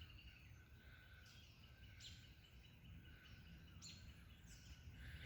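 Near-silent outdoor ambience with a few faint, short high chirps from distant birds, each note falling in pitch.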